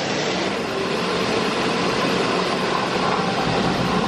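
Automatic car wash spraying water over the car, a steady rushing hiss heard from inside the cabin.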